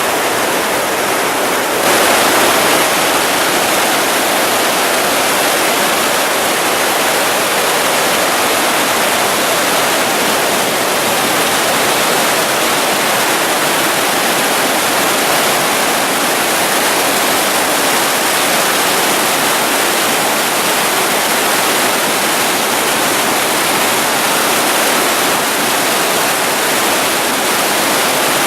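Loud, steady rush of swollen flash-flood water pouring past, getting slightly louder about two seconds in.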